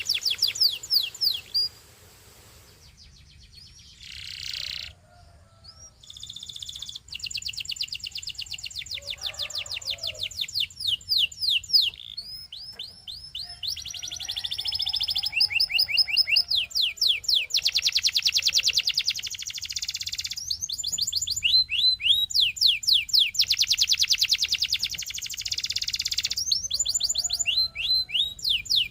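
Belgian singing canary singing long rapid trills of quickly repeated sweeping notes, breaking off briefly a few seconds in before going on.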